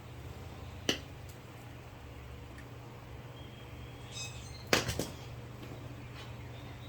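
A sharp click about a second in, then a quick cluster of two or three knocks about five seconds in, the loudest sounds, over a steady low hum.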